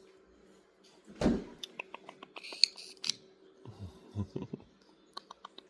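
A pet parrot's beak clicking and chewing: a sharp knock about a second in, then a quick run of small clicks and crunches, a few soft thumps, and more clicks near the end.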